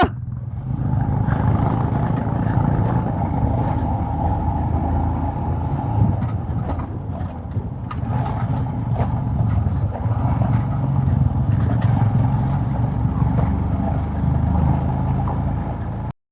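Royal Enfield Himalayan's 411 cc single-cylinder engine running steadily under way, heard from the rider's helmet, with small rises and falls in pitch. It cuts off suddenly near the end.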